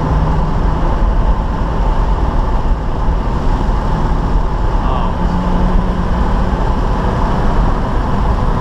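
1972 Chevy Nova's 350 Chevy V8 running steadily under way, with engine and road noise heard from inside the car. The engine note rises slightly about four seconds in.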